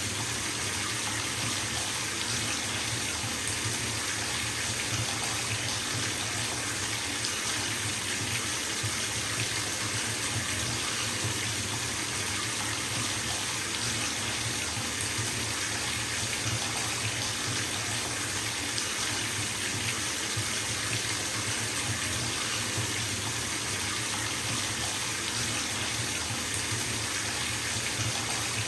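Water pouring from a bathtub tap into a filling tub: a steady, even rush with no change.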